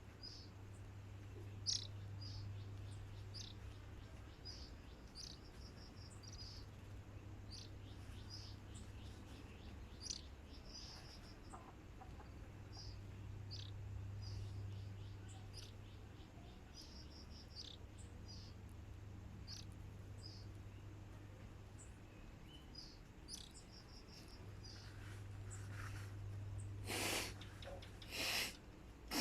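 Short high chirps and brief trills from a caged Oriental magpie-robin (kacer), coming every second or so over a faint low steady hum. Near the end, two short bursts of rushing noise.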